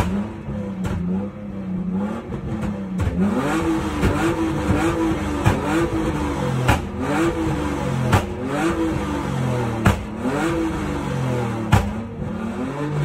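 Rally car's engine held at the start line, the throttle blipped over and over so the revs rise and fall about once a second. A sharp crack comes every couple of seconds.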